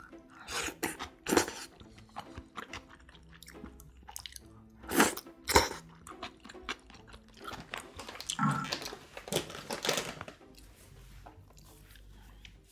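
Chewing and crunching food close to the microphone, with several sharp, louder bites: the loudest come about one and a half seconds in and again around five seconds in, and a busier run of them follows near the end.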